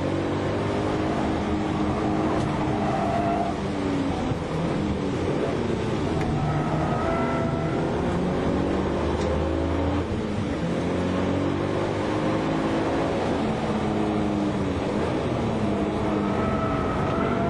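Mitsubishi Lancer Evolution IX Wagon MR's turbocharged 4G63 four-cylinder engine heard from inside the cabin while driven hard on track. Its note climbs and drops again and again as the car accelerates, shifts and lifts for corners.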